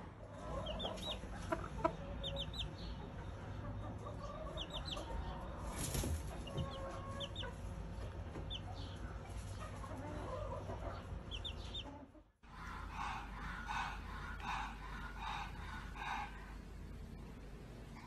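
Bird calls, like poultry: short high chirps in quick clusters of two to four, then, after a cut about twelve seconds in, a rhythmic run of clucking calls.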